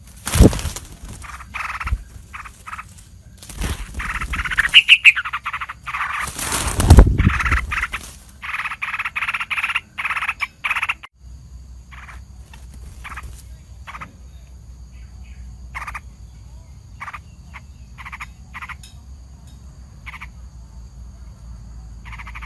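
Yellow-vented bulbul giving harsh, rapid alarm calls, the scolding of a parent bird mobbing a snake near its chick. The calls are dense and loud for the first half, with two loud thumps among them, then thin out to short single calls every second or so.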